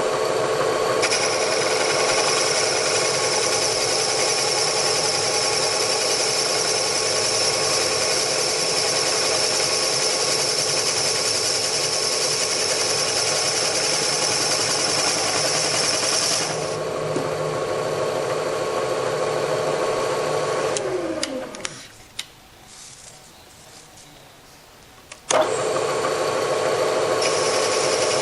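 Machine-shop boring machine running steadily while boring out a Porsche 911 MFI throttle-body bore, with a high whine over the motor hum until about halfway. About 21 seconds in the spindle winds down with a falling tone and stops. A few seconds later it starts again abruptly with a sharp click.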